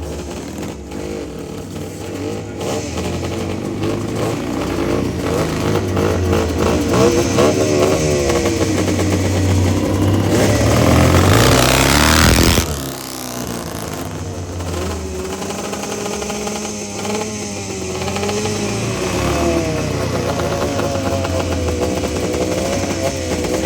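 Rickman Metisse scrambles motorcycle ridden around a gravel track, its engine revving up and down through the gears. It grows louder and is loudest as it comes close about halfway through, then drops away suddenly and carries on more distantly with the revs rising and falling.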